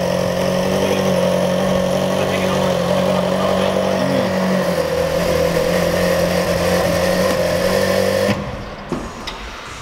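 Ferrari 458 Italia's V8 idling steadily. It cuts off abruptly about eight seconds in, leaving a quieter background with a few light clicks.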